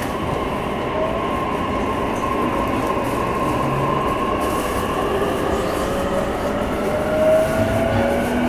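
E233 series 3000 electric train accelerating. Its inverter and traction motors give a whine of several tones that climbs steadily in pitch over the rumble of the wheels on the rails.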